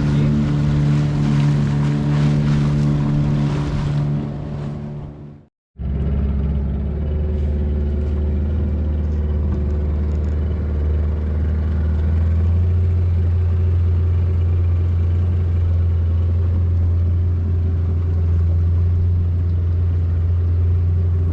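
Motorboat's petrol engine running steadily. It fades out to silence about five seconds in, then comes back at once as a deeper, steady drone that grows slightly fuller about halfway through.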